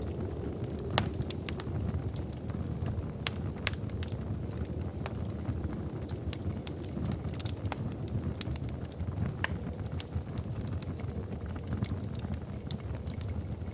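Wood fire burning in a fireplace: a steady low rumble of flames with irregular sharp crackles and pops, several every second.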